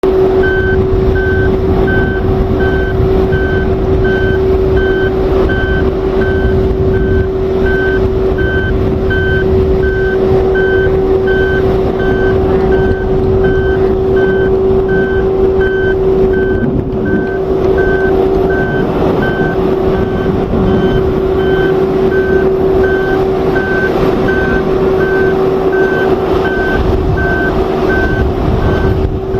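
Vehicle backup alarm beeping steadily, about one and a half beeps a second, over a continuous hum and low rumble of running machinery.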